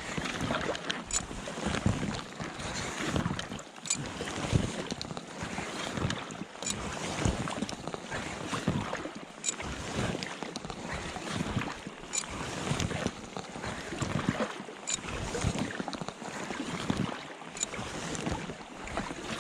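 Packraft paddle strokes splashing in the water, repeating every second or two, with wind buffeting the microphone.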